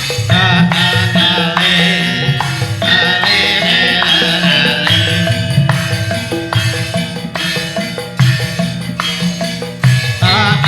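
Javanese gamelan playing an instrumental passage between sung verses: kendang hand-drum patterns over ringing struck metallophones and gongs, with a wavering melody line above.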